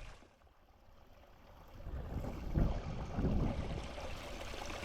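Creek water running in a steady hiss that comes up about two seconds in, with low rumbling on the microphone that peaks around the middle.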